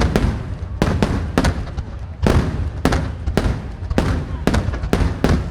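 Aerial fireworks shells bursting in quick succession, about two sharp booms a second, each with a short echoing tail.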